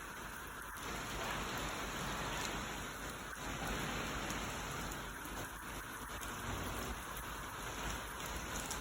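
Steady rain falling on a garden, a continuous hiss of rain on surfaces.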